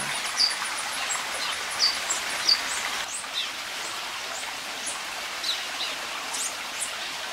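Several birds chirping and twittering in short, high notes, the loudest chirps about half a second, two seconds and two and a half seconds in, over a steady rushing hiss.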